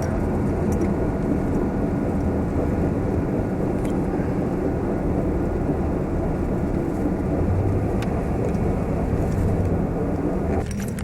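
Car driving on the road: a steady rumble of road and engine noise, easing off somewhat near the end.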